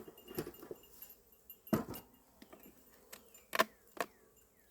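Sharp clicks and knocks of a hive tool on wooden hive boxes as boxes sealed with propolis are pried apart. There is one loud click about two seconds in and two more close together near the end.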